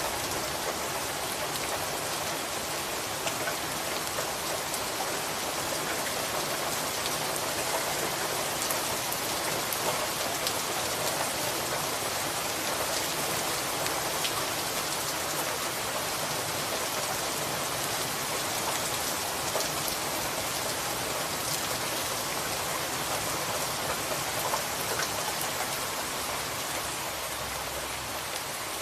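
Steady rain falling on a surface, an even hiss with scattered small drop clicks.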